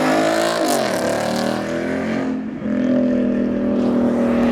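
Car engine revving; the pitch drops back about a second in, then holds a steady drone from near three seconds in.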